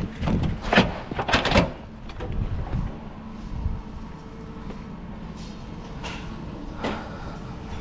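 Side curtain of a curtainsider truck trailer being opened: several sharp metal clacks and rattles in the first two seconds and another near the end, as the curtain is unfastened and slid along its rail, over a steady low hum.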